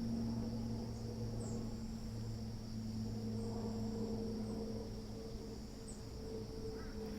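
Crickets chirring steadily in a high band, over a steady low hum. Two faint, short high chirps come about a second and a half in and again near six seconds.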